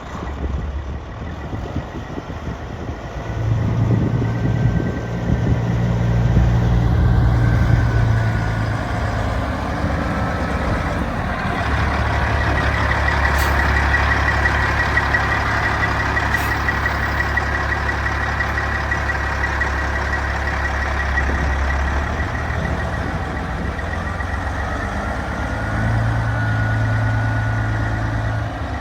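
2007 Peterbilt 379 semi truck's diesel engine running, its speed raised twice and settling back to a lower idle in between. A high, rapidly pulsing beep sounds for about ten seconds in the middle.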